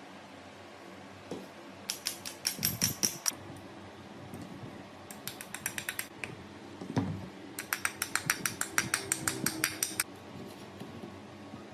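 Three bursts of rapid, evenly spaced mechanical clicking, about ten clicks a second; the last and longest lasts about two seconds.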